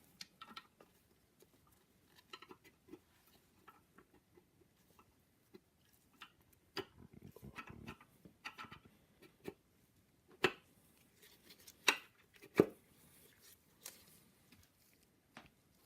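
Light, scattered clicks and taps of metal engine parts being handled, a piston and connecting rod being worked by hand, with a few sharper knocks around ten and twelve seconds in.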